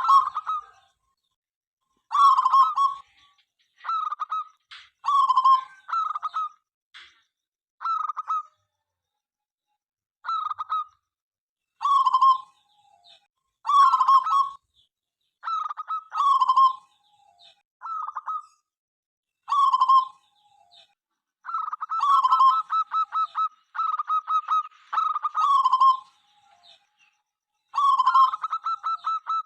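Local perkutut (zebra dove) cooing over and over: short staccato coos every second or two with brief pauses, some phrases running into quick rapid-fire trills.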